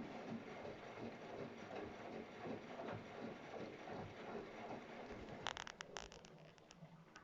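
Washing machine running faintly, laundry tumbling and sloshing in the drum, with a quick cluster of clicks about five and a half seconds in before the sound fades away.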